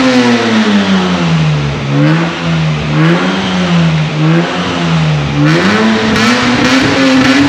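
Lexus IS200 straight-six petrol engine being revved while stationary with its rear silencer removed. The revs fall back to a lower hold with a few small blips, then rise again about five and a half seconds in and stay up.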